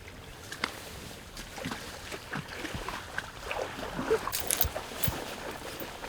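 Water sloshing and splashing with scattered knocks, as of someone wading through a flooded field; the splashing grows busier past the middle.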